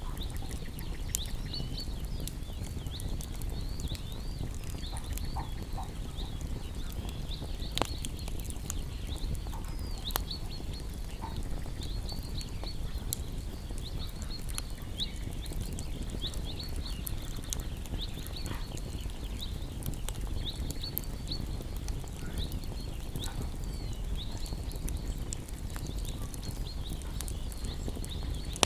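Small songbirds chirping constantly in quick high calls over a wood fire crackling with scattered sharp pops. A steady low rumble runs underneath.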